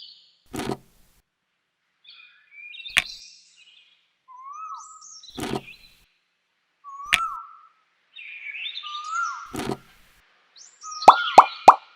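Birds chirping in short calls that drop in pitch, with an occasional single knock. About a second before the end, a rapid run of loud popping sounds starts, about five a second.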